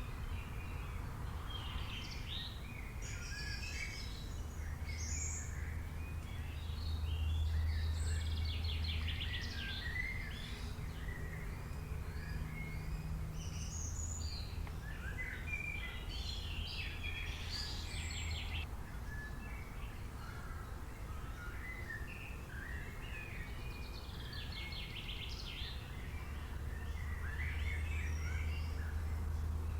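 Many songbirds chirping and trilling at once, their short calls overlapping throughout, over a steady low rumble that swells twice.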